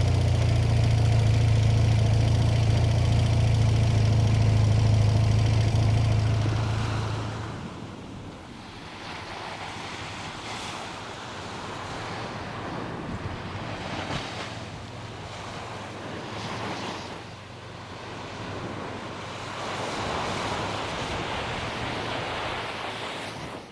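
An engine running at a steady idle, which stops about seven and a half seconds in. It is followed by a quieter, steady outdoor rush that swells and falls, and the sound ends abruptly.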